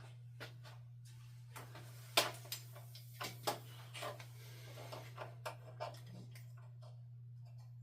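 Scattered small clicks and knocks of vacuum power-nozzle parts being handled during disassembly, the sharpest about two seconds in, over a steady low hum.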